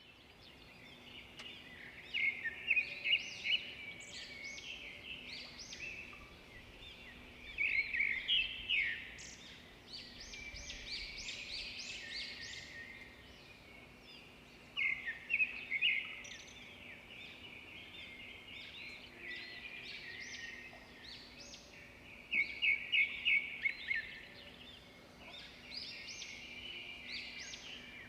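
Several wild birds chirping and singing together, with loud bursts of rapidly repeated notes every several seconds over a busier background of chirps. A faint steady low hum lies underneath.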